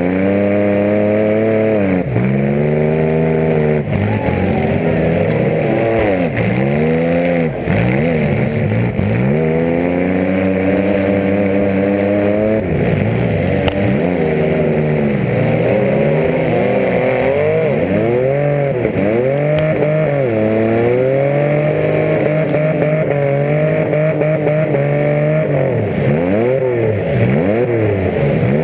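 Compact demolition-derby car's engine running through open exhaust stacks, heard from inside the car, revving up and down over and over as it is driven. One longer climb in revs comes about a third of the way in.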